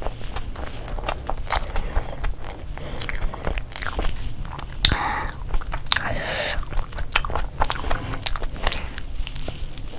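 Close-up chewing and biting of a soft gravy-soaked chicken burger: many small wet mouth clicks and smacks. There are two longer, noisier sounds about five and six seconds in.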